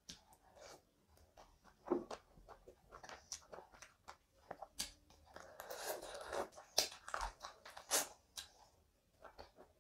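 Close-miked eating sounds of a person chewing mouthfuls of rice and chicken curry eaten by hand, with many short wet mouth clicks; busiest about six seconds in.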